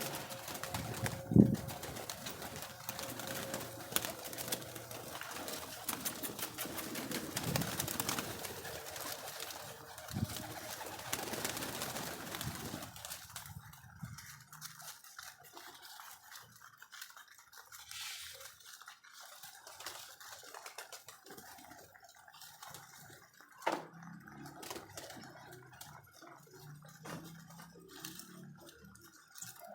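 Domestic pigeons cooing, with scattered knocks and clicks around them; a sharp knock about a second and a half in is the loudest sound.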